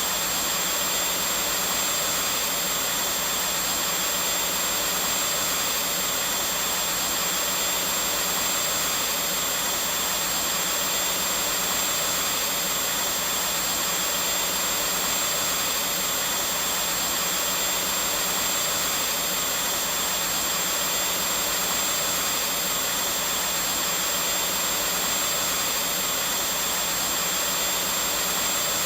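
Vacuum cleaner running steadily: an even noise of air with a thin high whine above it, unchanging in pitch and level.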